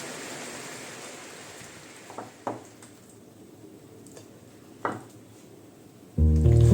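Soft steady hiss with three light clicks or taps, about two, two and a half and five seconds in; music comes in loudly near the end.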